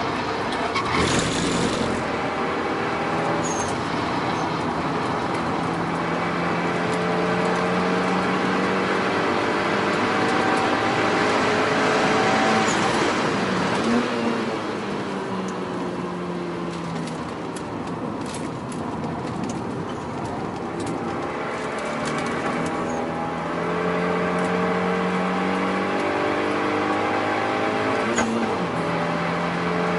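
Renault Mégane RS 225's turbocharged 2.0-litre four-cylinder, breathing through a Milltek downpipe and cat-back exhaust, pulling under load at track speed with wind and tyre noise. The engine note climbs slowly, falls off about halfway through as the car slows, then builds again.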